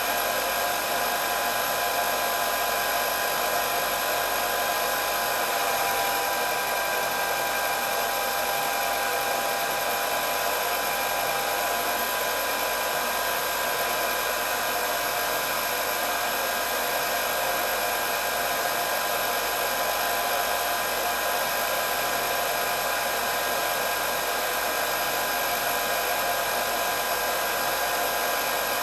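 Hair dryer running steadily: an even rush of air with a constant high motor whine over it.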